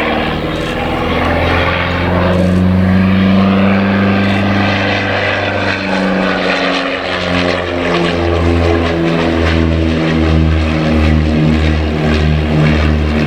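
Miles Gemini twin-engined light aircraft flying past, its piston engines and propellers running steadily. About halfway through the sound settles into a regular pulsing throb, the beat of the two engines turning at slightly different speeds, which quickens a little.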